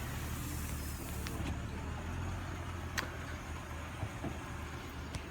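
A car engine running steadily with a low, even hum, and a single faint click about three seconds in.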